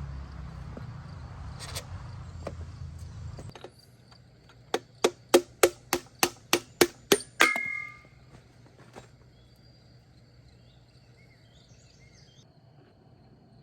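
Metal hand tools at work on an engine: a low steady hum that stops after about three and a half seconds, then a run of about ten sharp metallic clicks, roughly four a second, ending in a short ringing clink. Faint bird or insect chirps follow over a quiet background.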